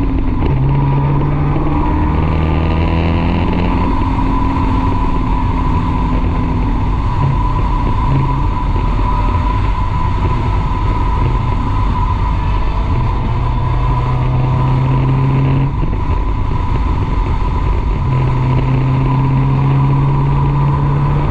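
Car engine running at speed under load, its note holding and then stepping to a new pitch every few seconds as it pulls and eases off, over heavy wind and tyre noise, with a steady high whine throughout.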